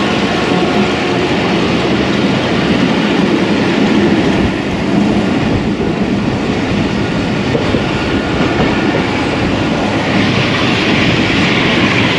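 A Pakistan Railways Tezgam passenger coach running at speed, heard from inside the coach: a steady, loud rumble and rattle of wheels on track with some clickety-clack. The noise takes on a brighter, hissier edge about ten seconds in.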